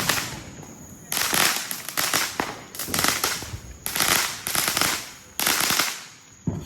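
Fireworks going off in a string of bursts of rapid crackling pops, about five bursts each lasting around a second, with a single sharp bang near the end.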